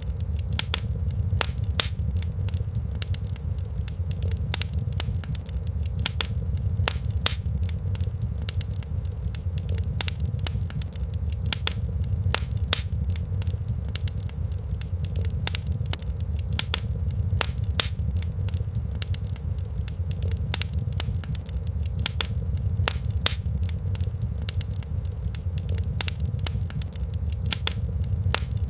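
Wood fire in a fireplace crackling: a dense, irregular stream of sharp pops and snaps over a steady low rumble.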